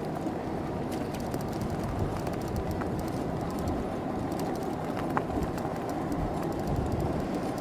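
Steady low riding noise from an e-bike on the road: tyres and motion over the pavement, with scattered light clicks and rattles.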